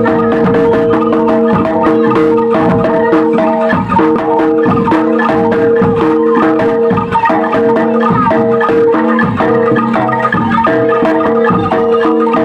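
Gamelan music for a jaranan (kuda lumping) show: mallet-struck metallophones play a dense, repeating pattern of ringing notes, with percussive strokes going on steadily throughout.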